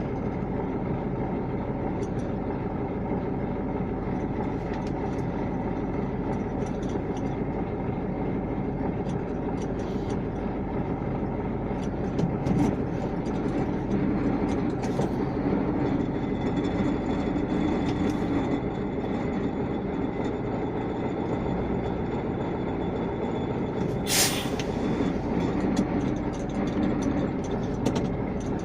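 KAMAZ truck's diesel engine running steadily, with a short burst of hissing air about three-quarters of the way through.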